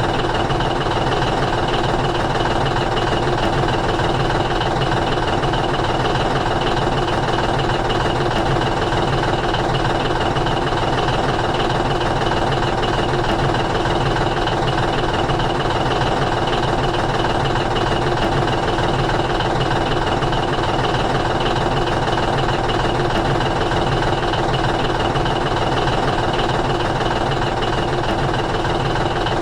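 Steady engine-like running sound that holds even and unchanging throughout, with no starts, stops or revving.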